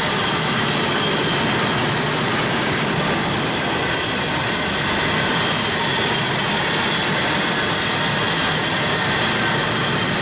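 Freight train of coal hopper cars rolling past: a steady, unbroken noise of steel wheels running on the rails.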